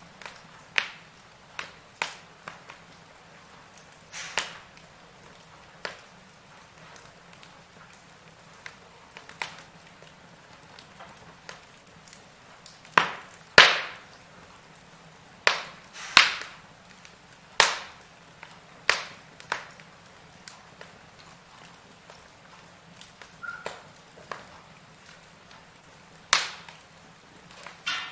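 Wood fire crackling in a fireplace: irregular sharp pops and cracks every second or two, some much louder than others, over a faint steady hiss.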